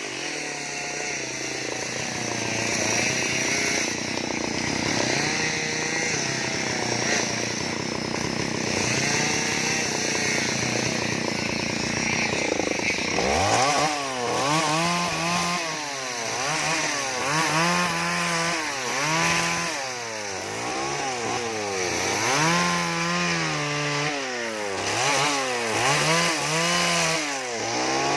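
Two-stroke chainsaw carving wood. For about the first half it runs at high speed with a wavering pitch; from about halfway it revs up and drops back over and over, roughly every second and a half.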